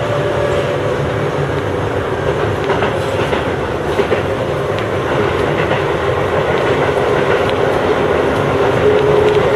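Chiba New Town Railway 9000 series electric train running, heard from on board: a steady rumble of wheels on rail with a few scattered clicks over rail joints and a faint humming tone underneath.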